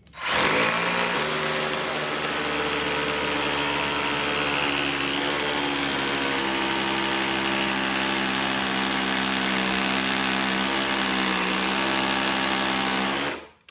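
Brushed Ryobi cordless SDS hammer drill with a 5/8-inch bit hammer-drilling into brick. Its motor and hammer action make a steady drone that starts abruptly and cuts off about thirteen seconds in.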